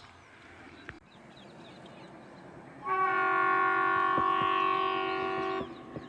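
Locomotive horn sounding one long steady blast of nearly three seconds, starting about three seconds in and stopping sharply.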